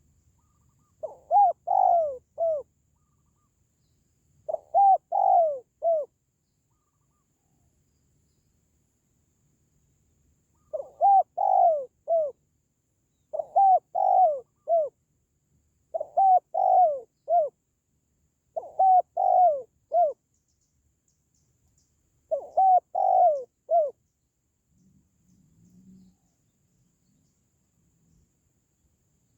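Spotted dove (tekukur) cooing: seven phrases of three or four arching coos each, spaced a few seconds apart, with a longer pause after the second phrase.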